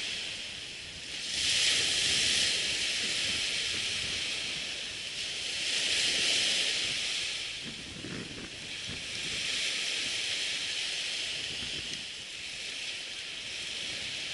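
Surf breaking and washing up the beach, the hiss swelling and fading in waves every few seconds, with wind buffeting the microphone in low rumbles.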